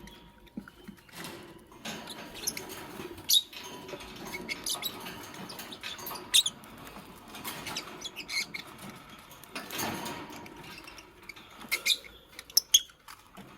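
Fischer's lovebirds giving short, high squeaky chirps every second or two, over rustling and scratching, with a cluster of sharper chirps near the end.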